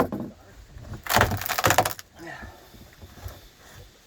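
Rotted wood being chipped out of a boat transom: one sharp strike, then about a second later roughly a second of crackling and splintering as the wood breaks away, followed by fainter scraping.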